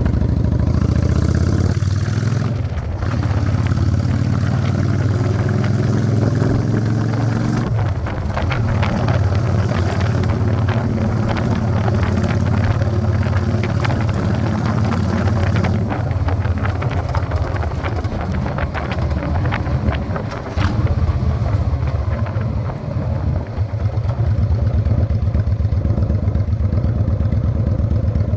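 Honda Shadow 600 V-twin motorcycle engine running under way. Its note shifts about 8 seconds in and again around 20 to 23 seconds, and it settles to a steady lower note near the end.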